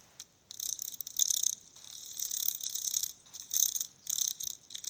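Dragonfly wings whirring in a high-pitched rattle that comes in short bursts with brief gaps between them.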